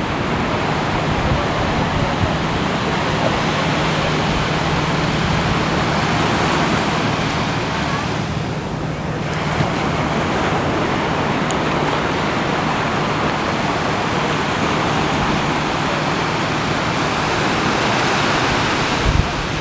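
Ocean waves washing and breaking in a continuous rush, easing briefly about eight seconds in, with wind on the microphone and a low steady hum underneath.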